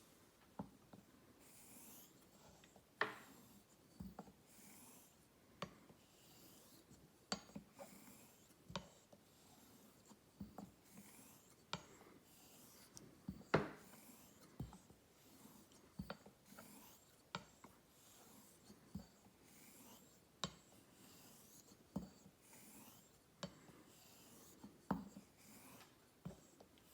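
Straight razor being honed on a whetstone: the blade hisses softly as it slides across the wet stone, with a sharp click about every second or so as the razor is flipped over on its spine between strokes.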